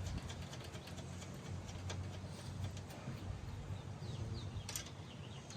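Scattered light metallic clicks of nuts and hand tools being worked onto the strut bar's mounting studs, over a low steady hum, with small birds chirping in the background near the end.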